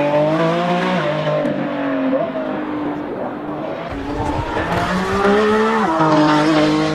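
Sports car engine revving hard under acceleration. Its pitch climbs, then drops sharply at a gear change about a second in. It climbs again and drops at a second gear change near the end.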